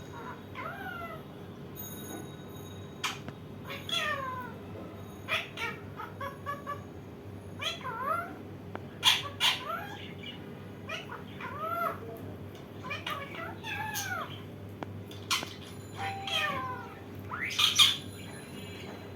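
Indian ringneck parakeet giving a string of short calls, each sweeping down in pitch, about one a second, with a few sharp clicks between them.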